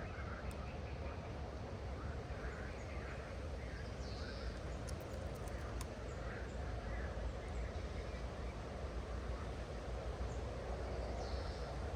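Birds calling now and then, including crow-like caws, over a steady outdoor rush with a low rumble. A few faint clicks come about halfway through.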